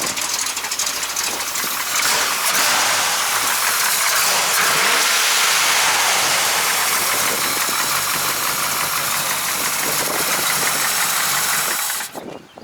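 Camaro V8 engine running loud, stepping up in level about two seconds in and holding there, then cutting off abruptly near the end.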